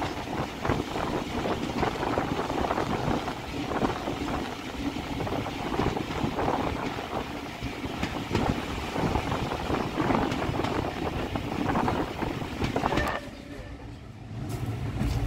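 Train running on the Swanage Railway heritage line: a dense rattling, rushing noise that drops away suddenly about thirteen seconds in, then turns to a lower rumble near the end.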